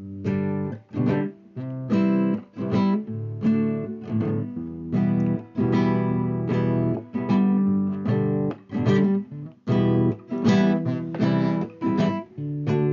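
Acoustic guitar strumming chords in a forró rhythm, playing a song's instrumental introduction.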